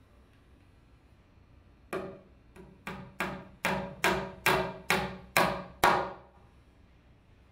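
Hammer blows driving a nail: about ten sharp knocks at roughly two to three a second, growing louder toward the last ones.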